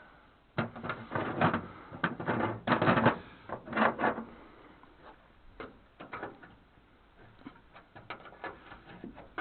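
Metal tools working on rusted truck bolts: bursts of rapid metallic rattling and clicking for about four seconds, then scattered single clicks.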